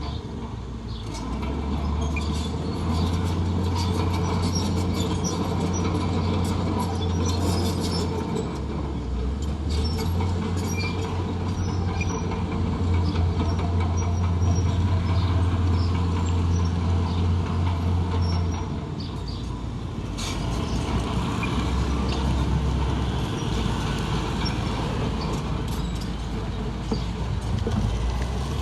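Heavy diesel construction machinery running with a low drone that shifts pitch several times, with scattered clanks.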